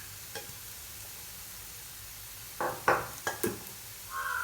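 Low, steady hiss of food frying in a pan. About two and a half seconds in comes a quick run of four sharp knocks and clinks of a utensil against the pan.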